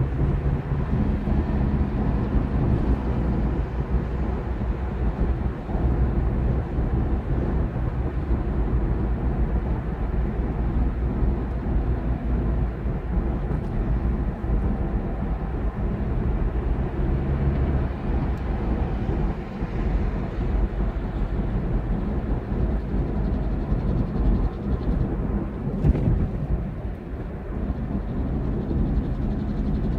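Semi truck running: a steady low engine drone mixed with road and wind noise.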